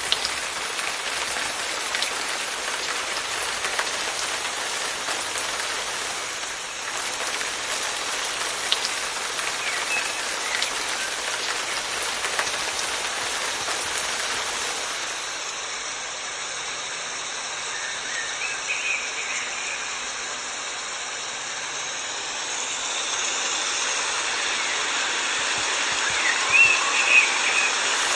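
Steady rain falling, an even hiss of drops, with a few brief high-pitched sounds over it near the middle and end.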